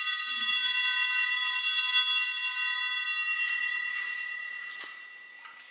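Altar bells rung at the elevation of the host during the consecration: a loud, high ringing of several pitches at once, which stops being shaken about two and a half seconds in and dies away over the following seconds.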